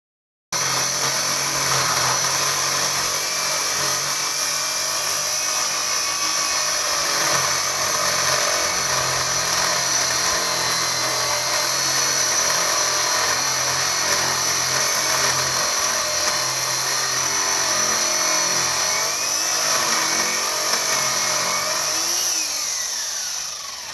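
Circular saw fitted with an abrasive cutoff disc, grinding through thick steel and running steadily under load, with the disc wearing down as it cuts. It starts abruptly about half a second in, and the motor winds down near the end.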